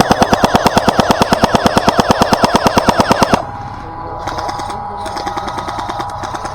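Airsoft electric gun firing one long full-auto burst of about nine shots a second, with the motor and gearbox whine under the shots, stopping after about three and a half seconds. Fainter rapid firing follows.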